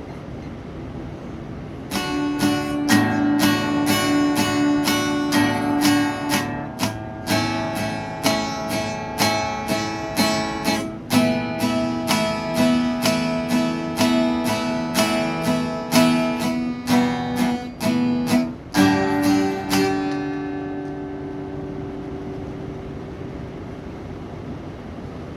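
Acoustic guitar strumming chords in a steady rhythm, about two strums a second. Near the end the last chord is left to ring and fade out. Before the first strum there is only a low steady hiss.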